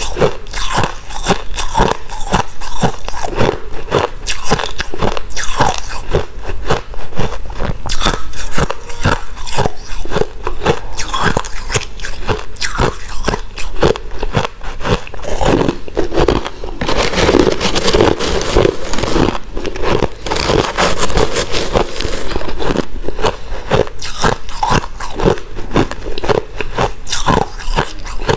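White crunchy ice being bitten and chewed close to the microphone: a dense, continuous run of crisp cracks and crunches, thickest for a few seconds just past the middle.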